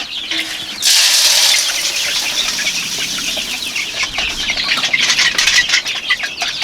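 Chicken feed poured out with a sudden rattling rush about a second in, followed by a steady pattering of grain, with hens clucking around it.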